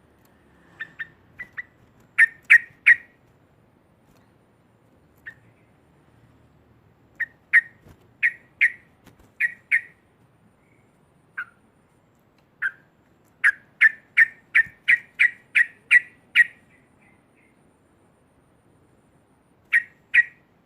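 Yellow-vented bulbul giving short, sharp chattering calls in bursts, with a fast run of about nine notes past the middle and a pair near the end: the loud 'ngekek' chatter bird-keepers use to rouse other bulbuls.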